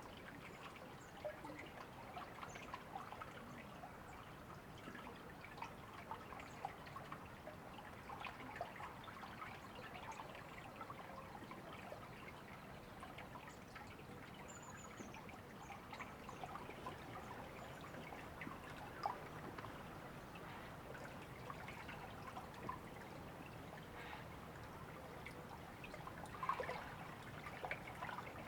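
Shallow river water trickling and babbling steadily over stones, with a few faint high bird chirps about halfway through.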